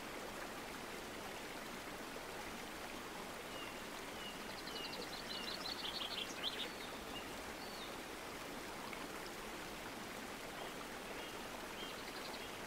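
Steady faint background hiss, with a small bird chirping faintly: a few short falling chirps and a quick high trill in the middle, and a couple more chirps near the end.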